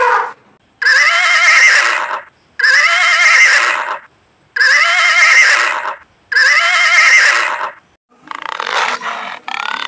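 An animal call, a loud wavering cry about a second and a half long, repeated four times in identical copies with short gaps between. A rougher, noisier animal sound starts about eight seconds in.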